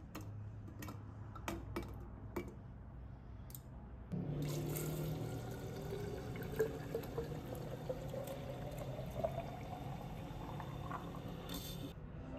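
A few light clicks, then liquid pouring into a container for about eight seconds, its pitch rising slowly as the container fills.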